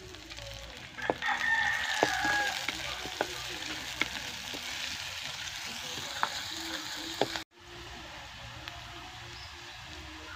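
Sliced onions and pandan leaves sizzling in hot oil in a clay pot, with a wooden spoon knocking against the pot now and then as they are stirred. A rooster crows once, about a second in. The sound cuts out briefly about three quarters of the way through, and a softer sizzle follows.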